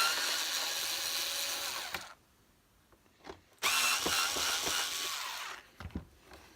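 Power screwdriver running in two bursts of about two seconds each, each starting with a short rising whine, undoing two screws. A few light clicks and knocks follow near the end.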